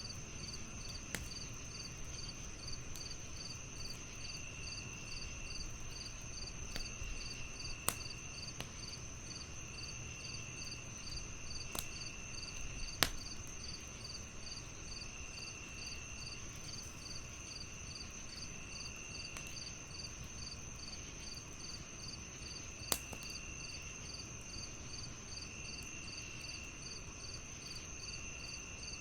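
Crickets chirping in layers: a continuous high trill, an evenly pulsed chirp, and a lower trill that starts and stops every second or two. Under them is the low hiss of a wood fire, with a handful of sharp crackling pops; the loudest comes a little before halfway.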